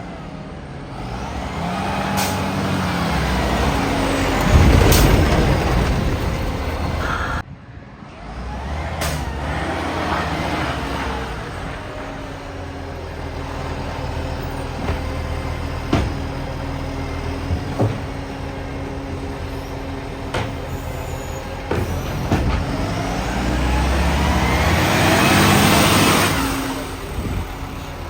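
Garbage truck's diesel engine running and revving up twice as it pulls away, through a leaking exhaust.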